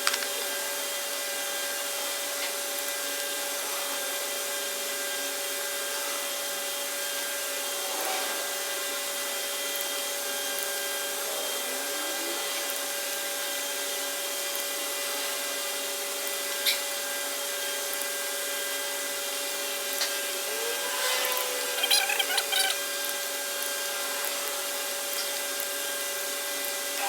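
A steady mechanical hum made of several held tones, with a few light clicks and knocks, the most of them in a cluster about 21 to 23 seconds in.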